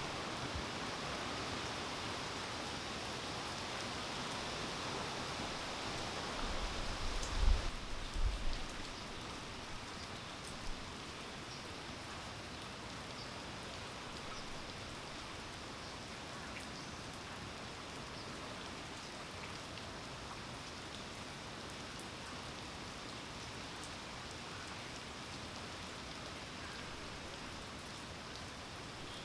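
Steady rain falling. A few low thumps come about a quarter of the way in, and the rain eases slightly after that.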